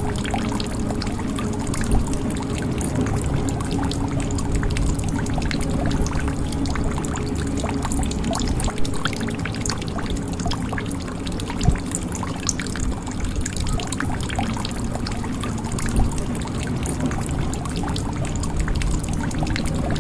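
Water pouring and trickling into a jug in a steady stream, with a continuous low splashing and many small drips. A few louder drops stand out now and then.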